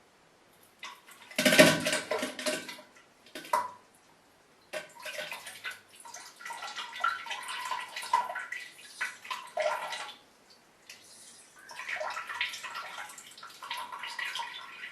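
Diarrhea sound effect: irregular wet, splattering bursts of liquid. The loudest burst comes about a second and a half in, followed by a short one and then two longer, uneven stretches of wet spluttering.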